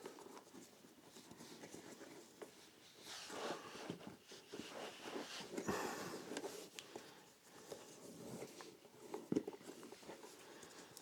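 Leather derby shoes being handled and laced up by hand: faint, irregular rustling and scratching of laces and leather with small clicks, and one sharper knock about nine seconds in.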